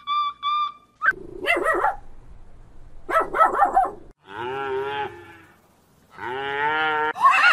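Cattle mooing: two long, wavering moos, the second starting about six seconds in. Before them come two short animal calls and a brief run of beeping notes at the very start.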